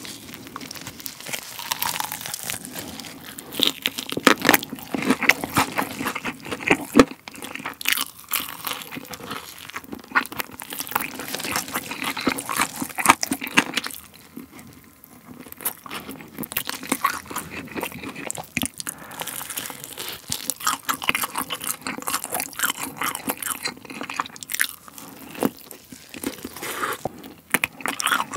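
Eating sauced fried chicken: crisp crunches of biting into the coating and wet chewing. There is a quieter stretch about halfway through.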